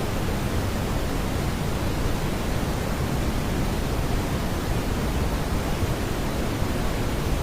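Steady synthetic brown noise: an even, unchanging rushing hiss weighted toward the low end, with no tones or beats.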